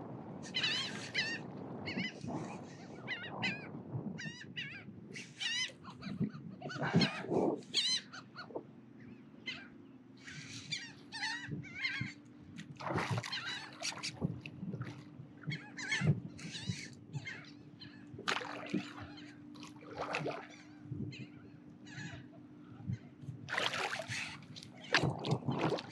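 Seabirds calling in many short, harsh cries, one after another, with low knocks mixed in.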